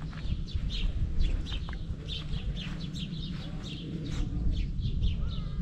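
Small birds chirping in quick, repeated short notes, several a second, over a constant low rumble.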